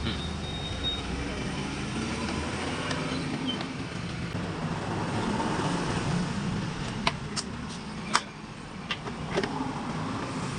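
Steady road traffic noise with a few sharp clicks, the loudest about eight seconds in.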